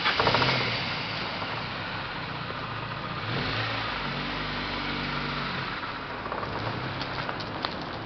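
Car engine starting: it catches with loud, rapid firing at the start, then keeps running steadily, with a deeper steady note in the middle few seconds before it eases off.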